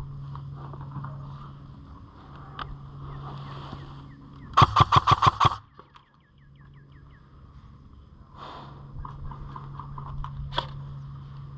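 Airsoft rifle firing a full-auto burst of about nine rapid shots in about a second, midway through; single sharp shots come a couple of seconds before it and near the end.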